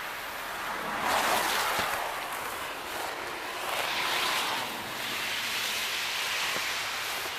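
Snow brush sweeping light powder snow off a car, heard as a steady swishing hiss with two louder sweeps, one about a second in and one around four seconds in.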